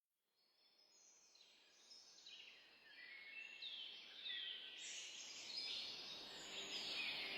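A large flock of parrots calling: many overlapping shrill chirps and sweeping squawks that swell steadily in loudness.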